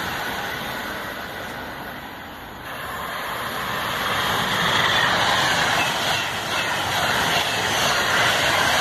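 Class 390 Pendolino electric trains running through the station at speed: a rushing noise of wheels on rail and air. The noise of one train fades over the first couple of seconds, then builds as the next approaches and stays loud as it runs past the platform.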